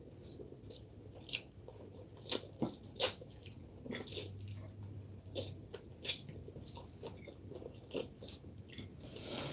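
Close-miked eating sounds: chewing, with irregular wet mouth clicks and smacks, one louder smack about three seconds in.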